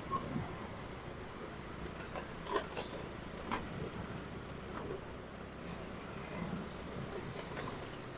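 Steady low hum of a vehicle moving through traffic, with a few short sharp clicks or knocks: one near the start, then about two and a half and three and a half seconds in.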